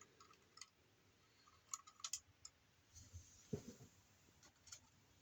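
Near silence with a few faint, scattered clicks and taps of a plastic toy being handled.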